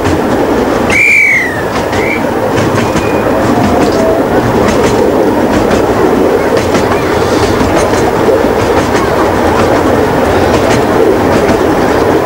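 Miniature railway train running, heard from aboard: a steady rumble with the clatter of wheels over rail joints, and a brief high squeal about a second in.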